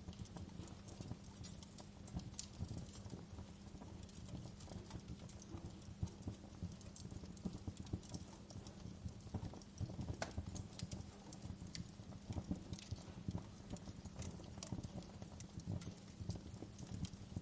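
Fire crackling: irregular pops and snaps over a steady low rumble.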